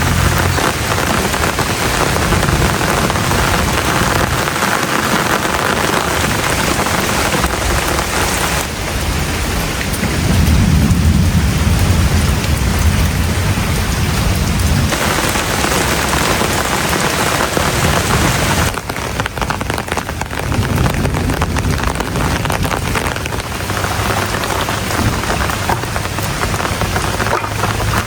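Heavy rain pouring steadily, its sound changing abruptly several times, with low rumbling at times.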